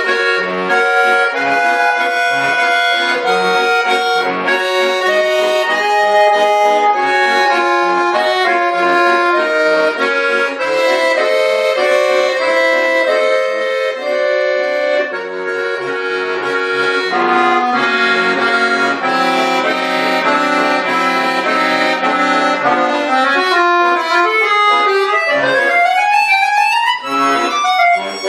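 Bayan (Russian button accordion) playing a piece with held chords under a moving melody, breaking into fast rising and falling runs near the end.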